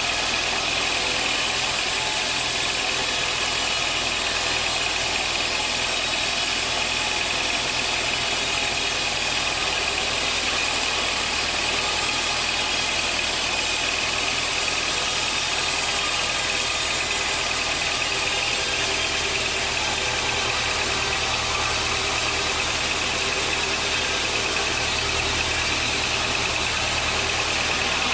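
Sawmill machinery running steadily: an even mechanical drone with a steady high whine over it.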